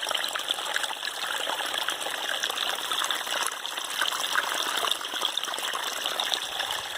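Running water, trickling steadily with many small splashes.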